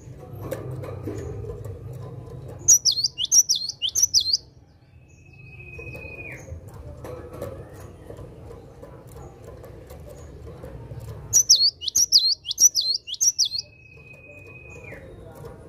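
Cinereous tit (gelatik batu) singing: two bursts of five or six quick, sharply falling high notes, each followed by a long steady whistle that drops at the end.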